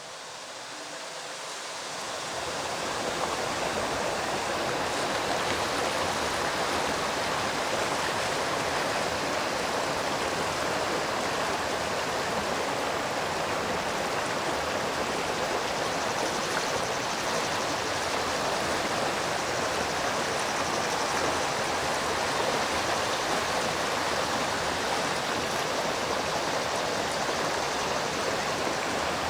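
Stream water running steadily, a constant rushing that fades in over the first few seconds.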